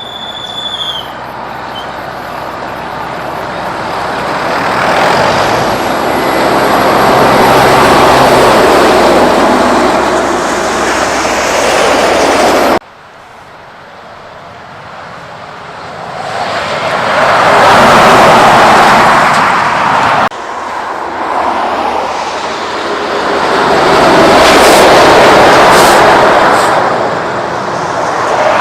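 Kenworth trucks passing by on the road: three pass-bys of engine and tyre noise, each swelling up to a loud peak and fading away, split by two abrupt cuts.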